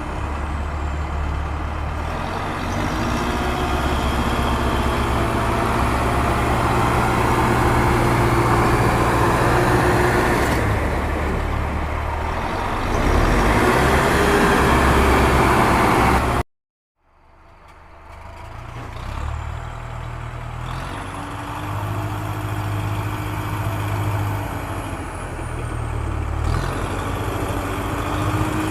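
A vehicle engine running steadily. It cuts out abruptly a little past halfway, then fades back in and runs on.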